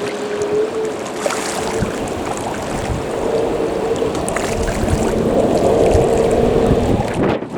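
An engine droning steadily with a humming tone, slowly growing louder, mixed with wind buffeting the microphone; it drops off sharply near the end.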